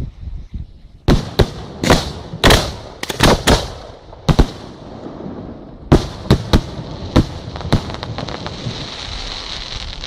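Display fireworks bursting: about a dozen sharp bangs in two quick clusters, the second starting about six seconds in. A steady hiss follows in the last two seconds.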